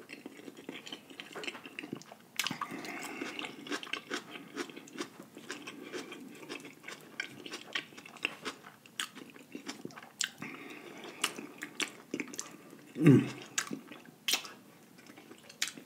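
A person chewing seafood-boil food in butter sauce, with wet mouth and lip-smacking clicks throughout. A short low hum about 13 seconds in.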